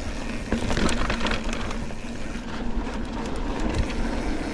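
Mountain bike rolling along a dirt trail: steady tyre and rolling rumble with scattered sharp clicks and rattles from the bike.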